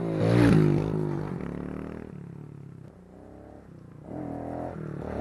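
Small pit bike engine revving hard about half a second in, then easing off, and revving up again near the end.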